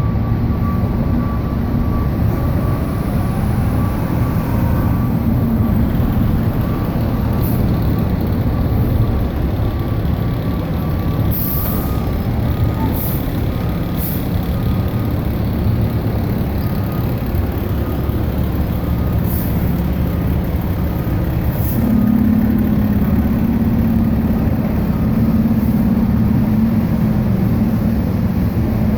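Fire truck's diesel engine running steadily, with the regular beeping of a reversing alarm for several seconds midway and a few short air-brake hisses.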